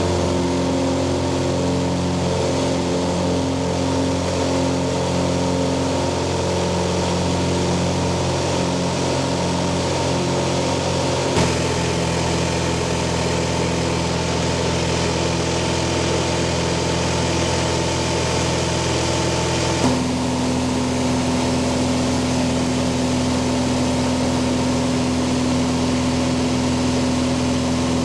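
An engine running steadily with an even drone. The drone's pitch changes abruptly twice, about eleven and twenty seconds in, each change marked by a small click where the footage is cut.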